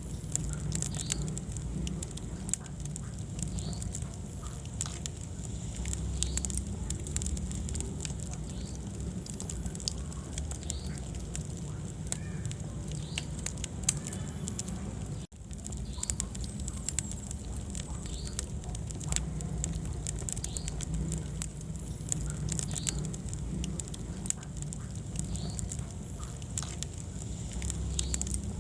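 Wood fire in a fireplace crackling and popping steadily over a low rumble, cutting out for an instant about halfway through.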